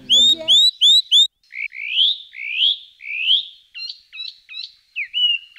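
Bird chirping in clear whistled phrases: four quick loud rising chirps, then five slower rising whistles, then four short hooked notes and a final held note.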